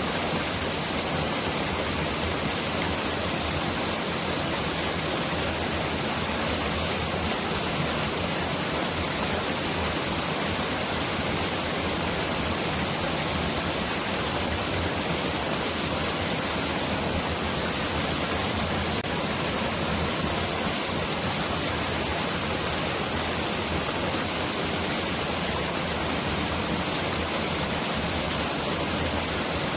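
Mountain valley stream rushing steadily over rocks, a dense, unchanging rush of water that sounds like heavy rain pouring down.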